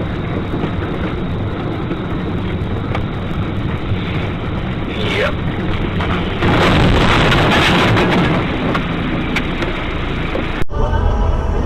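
Steady car engine and road noise picked up by a dash camera, with a louder rush of noise for about a second and a half near the middle. Near the end the sound cuts abruptly to a different recording.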